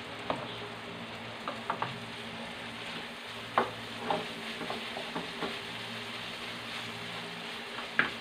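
Freshly added ground chicken frying in a wok with a steady sizzle, while a spatula stirs it, knocking and scraping against the pan about ten times; the loudest knocks come about three and a half seconds in and near the end.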